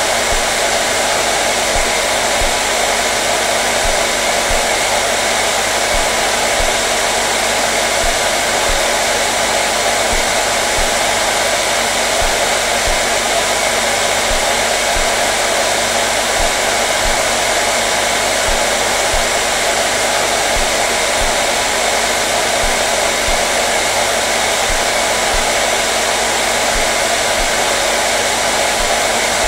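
Hair dryer blowing steadily: a constant whooshing hum with a few steady tones in it, no change in speed or level.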